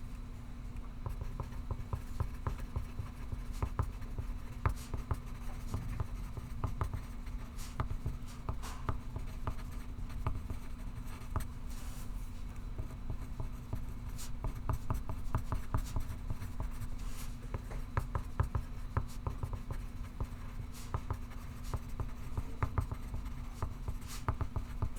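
Pencil writing on paper: a run of short, irregular scratching strokes, over a steady low hum.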